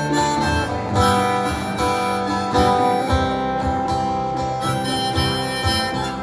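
Acoustic guitar strummed in a steady rhythm while a harmonica plays long held notes over it, the instrumental intro of a folk song.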